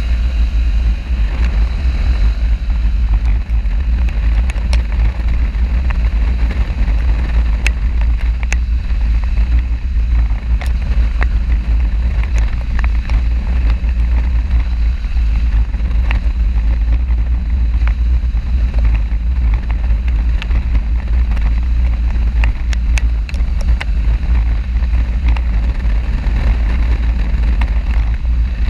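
Motorcycle on the move, heard through a GoPro microphone: a steady, heavy low wind rumble over engine and road noise, with scattered small clicks.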